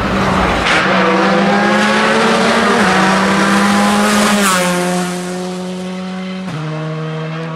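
Rally car engine at high revs accelerating hard, its note climbing and then dropping in three steps as it changes up through the gears. It grows somewhat quieter in the second half as it pulls away.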